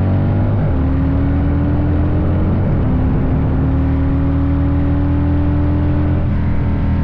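Vehicle engine running while travelling, its pitch climbing slowly, dropping back twice and changing again near the end.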